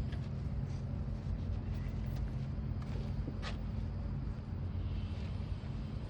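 A steady, low engine hum, with a few light clicks and knocks over it.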